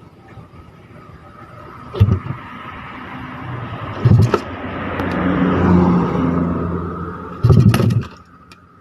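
Drag-racing motorcycle engines revving: short, very loud blips about two seconds in, about four seconds in and near the end, with a steadier engine sound swelling and fading between them.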